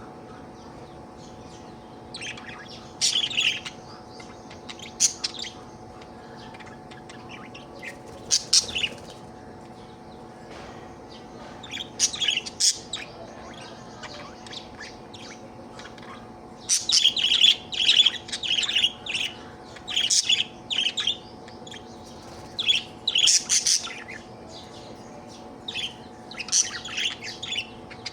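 Budgerigar chirping and chattering in irregular bursts of quick high chirps, the happy chatter of a content budgie, over a steady low hum.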